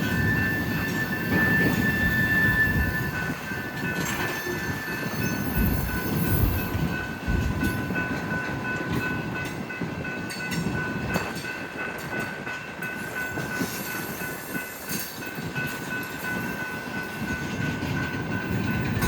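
Freight cars of a mixed train rolling past: a steady low rumble and rattle of wheels on rail, with a thin, high-pitched steel wheel squeal held throughout.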